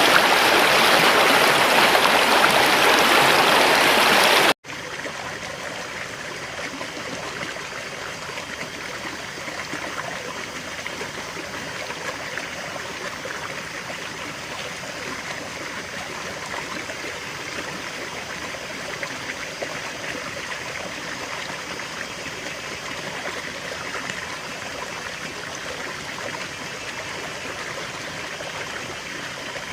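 River water flowing. A loud, full rushing sound cuts off abruptly about four and a half seconds in, and a quieter, thinner stream sound continues steadily after it.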